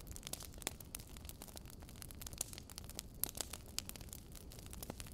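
Low rumble of wind on the microphone with scattered sharp crackling clicks, several a second at uneven intervals.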